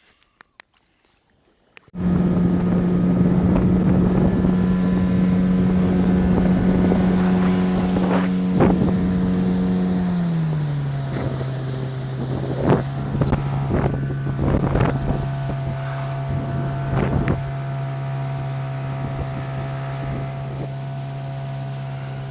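Boat's outboard motor running steadily under way, then dropping to a lower, steady pitch about ten seconds in as it is throttled back, with a few short knocks over it. It cuts in abruptly about two seconds in, after near silence with a few clicks.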